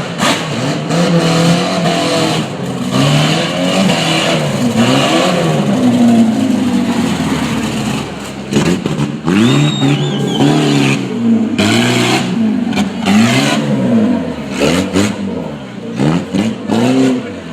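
Monster truck engine revving up and down over and over, the pitch swinging high and low many times. A brief high-pitched tone sounds about ten seconds in.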